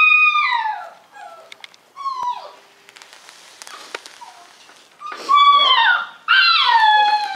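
Puppy whining: high cries that slide down in pitch, one trailing off in the first second, a short one about two seconds in, then two loud drawn-out cries in the second half, with faint clicks between.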